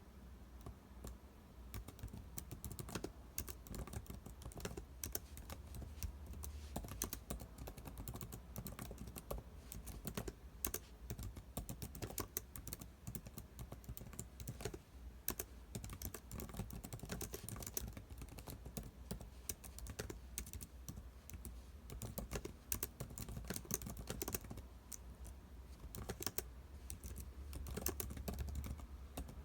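Typing on a computer keyboard: a fast, irregular stream of key clicks with short pauses between bursts of typing.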